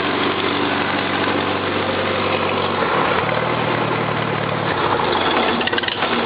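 Farmall Cub tractor's four-cylinder flathead engine idling steadily. It picks up speed for a second or two around the middle, then settles back, running in a way the owner calls good.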